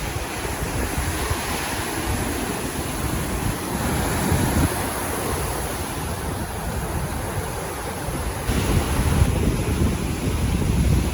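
Sea surf washing onto a sandy beach, a steady rushing noise, with wind buffeting the phone's microphone in uneven low gusts.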